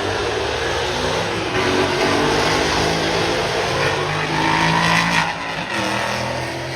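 Car engine revving hard and held at high revs, loud and sustained, over a heavy rushing noise.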